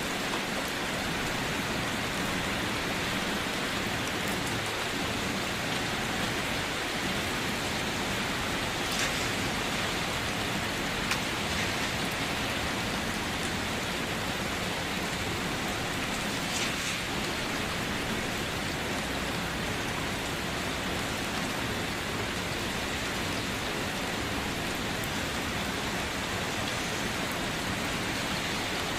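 Steady rain falling on a surface, an even hiss with an occasional louder drop standing out.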